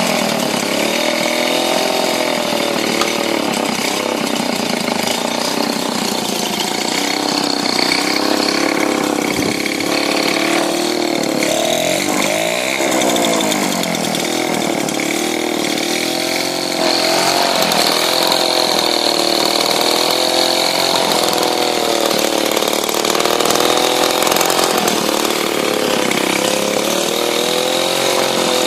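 1985 Motobécane 103 MVL moped's small two-stroke engine running warm without the choke, idling steadily with its speed wavering gently up and down and dipping briefly about halfway through. The engine is nearly freshly rebuilt and holds a good idle.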